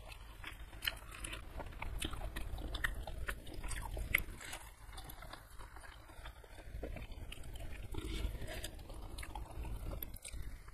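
Close-miked chewing of a mouthful of food, with repeated wet mouth clicks and smacks.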